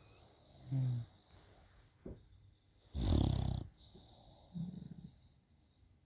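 Bulldog snoring: several separate rough snores at uneven intervals with quiet gaps between, the loudest about three seconds in.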